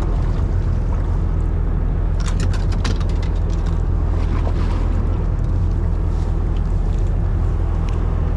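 Fishing boat's engine running with a steady low hum. A quick run of sharp clicks and rattles about two seconds in.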